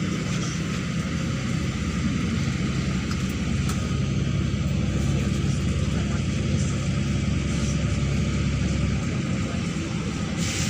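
Neman city bus under way, heard from on board: steady engine rumble and road noise, with the engine note shifting in pitch a few times as it drives.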